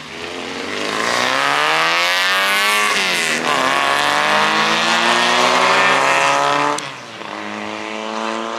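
A car accelerating hard away, its engine revs climbing, dropping sharply at an upshift about three seconds in, then climbing again before the driver lifts off near the seven-second mark.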